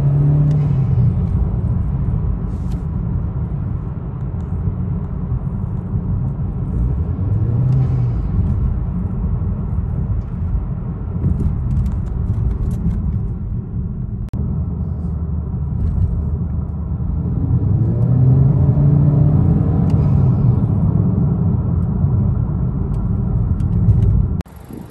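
Honda Accord 1.5-litre turbo four fitted with an AEM cold air intake, heard from inside the cabin while driving, over steady low road noise. The engine note rises and falls under throttle three times: near the start, about 8 seconds in, and for a longer stretch around 18 to 20 seconds in.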